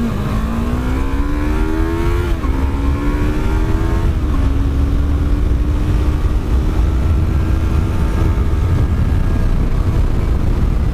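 Yamaha R3's parallel-twin engine accelerating through the gears: the pitch climbs, drops with an upshift about two seconds in and again about four seconds in, then holds steady at cruising speed. Heavy wind noise on the helmet microphone runs underneath.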